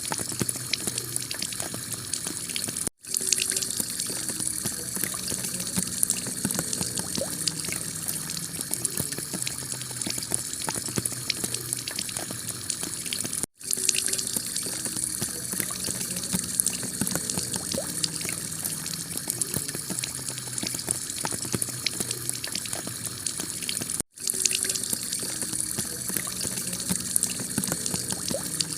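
Heavy rain pattering on a clay tile roof with water running off it, a steady dense hiss of drops. The recording is looped: it cuts out for an instant about every ten seconds and starts over.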